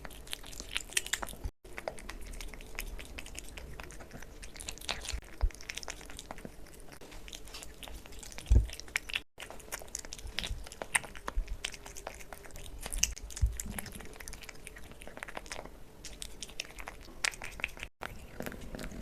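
A kitten eating cat food close to the microphone: quick wet chewing and licking clicks with an occasional louder knock, broken by three brief gaps where the recording is cut.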